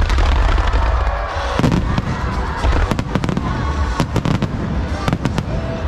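A fireworks display going off: a dense run of sharp bangs and crackling bursts over a constant low rumble, with music playing behind.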